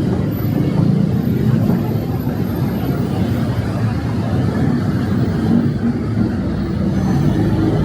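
City street traffic: vehicle engines running in a steady low rumble, with faint voices of passers-by.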